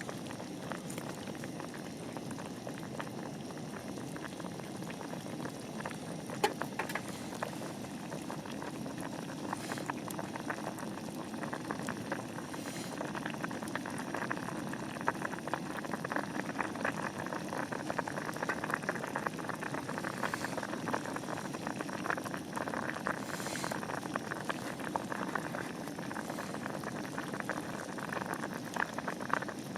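A pot of liquid boiling on the fire, bubbling steadily and getting a little louder about halfway through, with a few sharper clicks.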